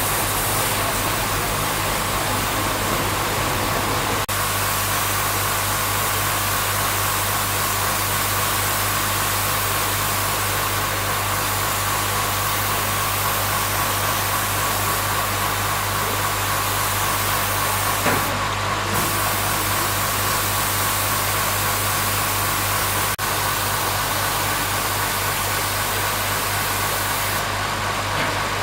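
An engine idling steadily with an even low hum and a constant higher whine, and a single sharp click late on.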